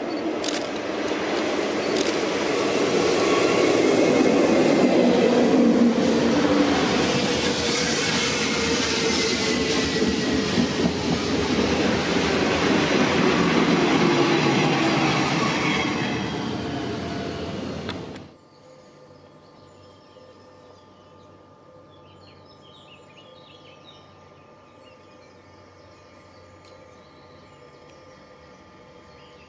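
A train passing close by on the railway line, growing loud over the first few seconds and staying loud, with faint gliding whine tones running through it. It stops abruptly a little past the halfway point, leaving quiet background with faint high chirps.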